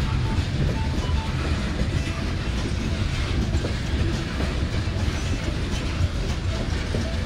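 Coal hopper cars of a long freight train rolling past: a steady rumble of steel wheels on the rails with a light clickety-clack over the rail joints.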